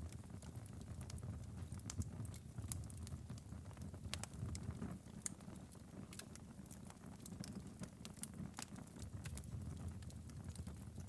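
Wood fire crackling in a fireplace: a low steady rumble of flames with frequent irregular sharp pops and snaps.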